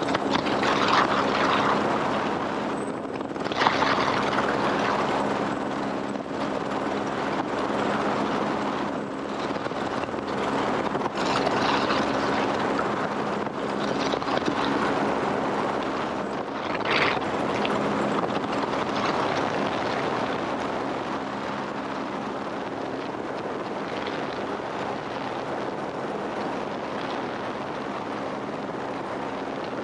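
Helicopter in flight: a steady engine and rotor hum under a continuous rushing noise, with a few brief louder surges in the first half.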